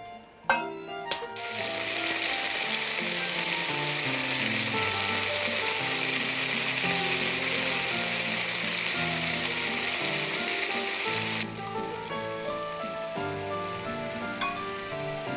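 Background music with a loud, steady sizzling hiss laid over it, starting about a second in and cutting off suddenly about eleven seconds in.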